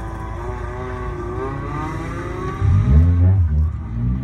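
Honda Integra Type R DC2's four-cylinder engine, on a decatted Invidia N1 exhaust, heard from inside the cabin. The revs are held and slowly rise on the start line, then about two and a half seconds in the exhaust note jumps suddenly louder and deeper as the car launches and pulls away.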